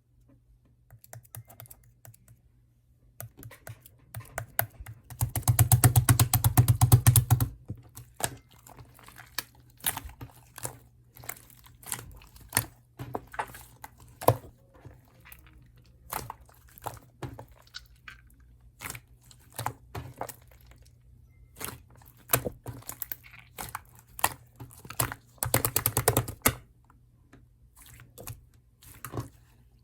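Clay slime being pressed and played with by hand: scattered sticky clicks and pops, with a run of rapid crackling about five seconds in and a shorter one near the end.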